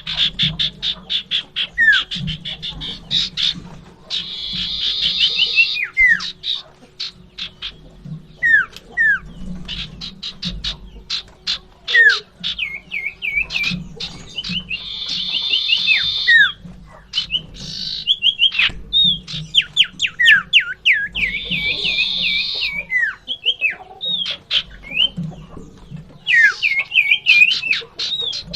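Common iora (sirtu or cipoh) singing energetically: fast dry rattling chatters, harsh buzzy bursts and short falling whistles, repeated over and over.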